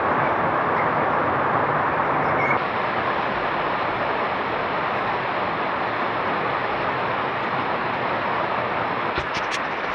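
Heavy rain falling steadily, a dense even hiss, with a few sharp clicks near the end.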